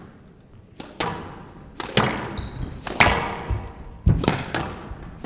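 A squash rally: the ball struck by rackets and slapping off the court walls, sharp echoing hits about once a second, coming faster near the end.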